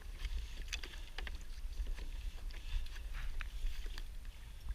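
Water around a kayak: scattered small splashes, drips and ticks over a steady low rumble of wind on the microphone.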